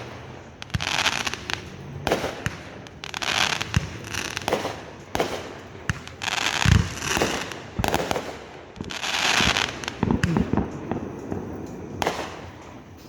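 Fireworks going off in a string of short hissing bursts, one after another every second or two, with a heavy boom about seven seconds in (the loudest moment) and a few more thuds around ten seconds in.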